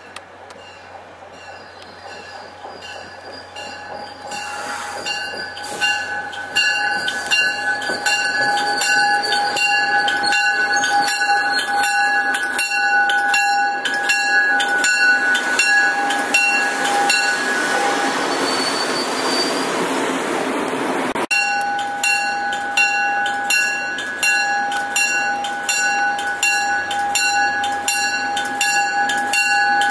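MBTA commuter rail train pulling into the station, growing louder as it nears and passes close by, while a warning bell rings steadily at about two strokes a second. A loud rush of train noise near the middle cuts off abruptly, and the bell ringing carries on.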